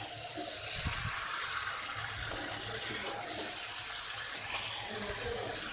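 Chicken and potato pieces sizzling in hot spiced oil in a metal kadai while being stirred with a metal spatula: the slow-frying (kasha) stage of a chicken curry. A steady hiss throughout.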